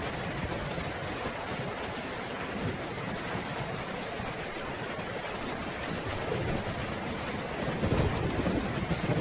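Steady rain falling, with a low roll of thunder swelling near the end.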